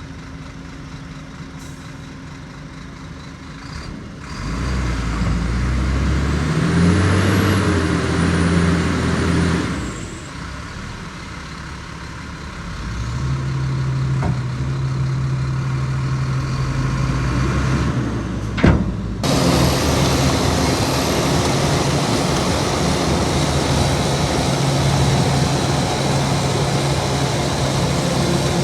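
Heavy diesel engine working at a recovery: low at first, then revving up under load, easing off, and pulling hard again. There is a single sharp knock partway through, after which a steady hiss joins the engine.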